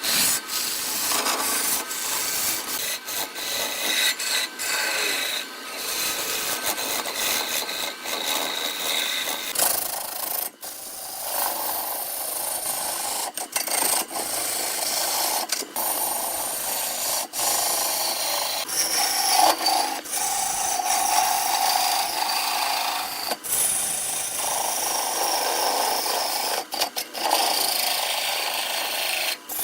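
Turning tool cutting wood spinning on a lathe: a continuous scraping hiss, broken by short gaps every few seconds.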